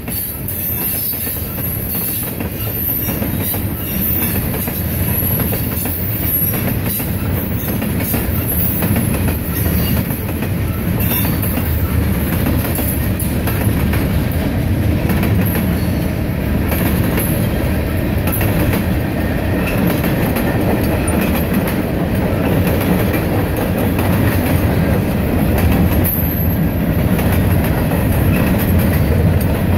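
Freight cars of a long CSX manifest train rolling past at steady speed: a continuous rumble of steel wheels on rail, with clickety-clack over the rail joints.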